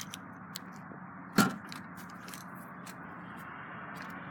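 A single sharp knock or crack about a second and a half in, over a steady low hum.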